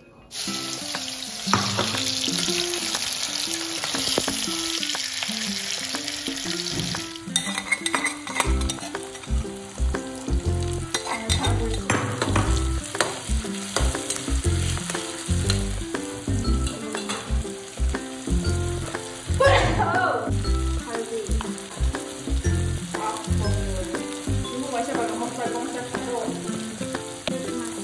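Sliced onions and green chillies dropped into hot oil in a steel wok, sizzling hard at once. From about seven seconds in they fry on with a softer sizzle while a spatula stirs and scrapes them around the pan.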